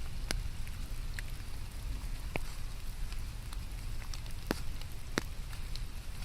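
Steady rain falling, with a low rumble underneath and scattered sharp ticks of single drops striking close by.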